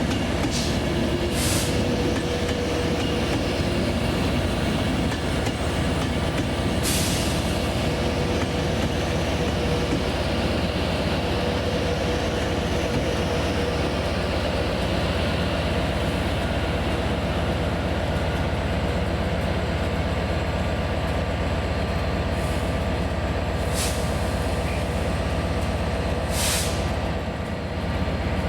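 A train running, a steady continuous rumble with a faint steady whine in the first half, and a few short high hisses scattered through it.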